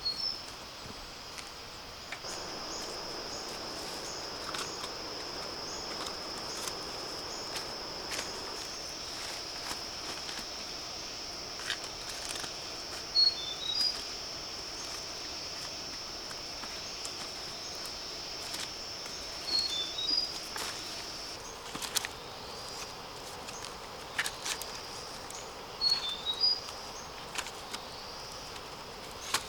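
Steady high-pitched insect drone, with a short call of three or four quick notes repeating about every six seconds, and scattered rustles, snaps and footsteps in undergrowth.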